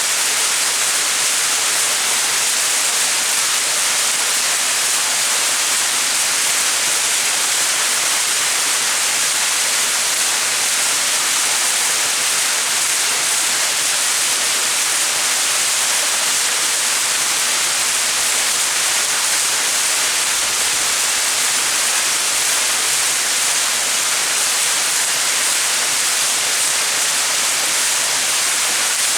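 Small mountain waterfall: water falling and splashing in a steady, unbroken hiss, mostly high-pitched.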